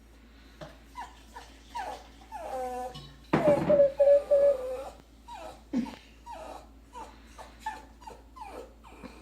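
A dog whining and whimpering in a string of short, falling cries, with a louder, longer whine held for about a second about three and a half seconds in.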